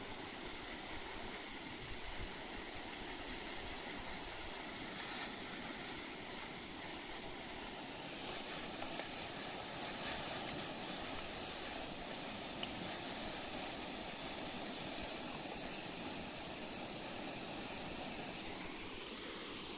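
Water spraying from a shower, a steady hiss of falling spray.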